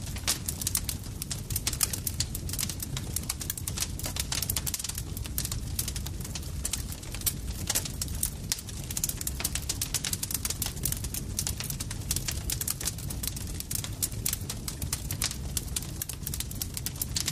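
Campfire crackling: a dense, irregular run of sharp pops and snaps from burning wood over a steady low rumble of the flames.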